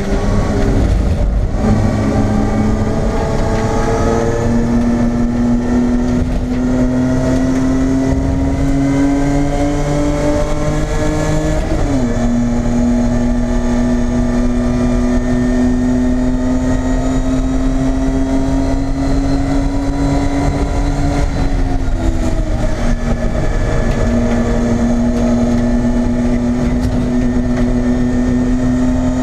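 BMW E30 race car's engine at racing speed, heard inside the stripped cabin. The note climbs slowly as the car pulls, drops sharply about twelve seconds in, and dips again around twenty-two seconds before holding steady.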